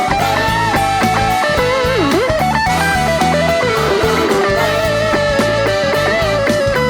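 Live pop-rock band playing an instrumental passage: a lead line, most likely electric guitar, bends in pitch over bass and drums.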